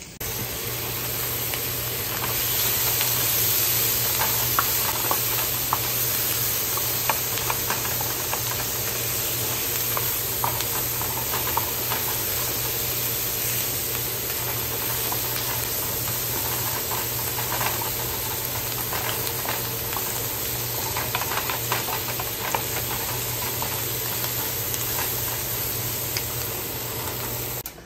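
Sliced andouille sausage, onions and peppers sizzling in a frying pan: a steady hiss with scattered small pops and scrapes as a wooden spoon stirs them, over a low steady hum.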